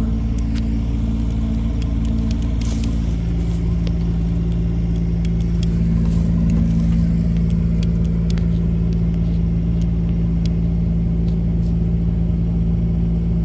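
Vehicle engine running steadily at idle, a constant low hum with a few light clicks over it.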